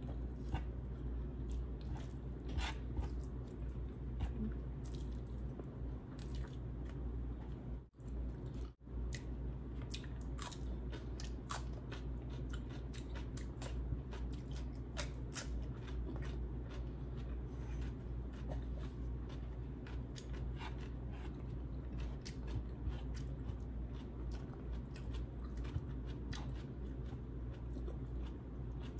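Close-up eating sounds: chewing and biting with many small, sharp mouth clicks and crunches, over a steady low background hum. The sound cuts out briefly twice about eight seconds in.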